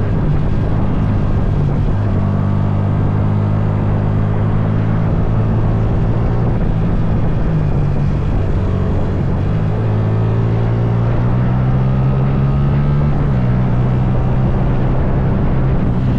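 Motorcycle engine running steadily while riding, its note shifting in steps a few times.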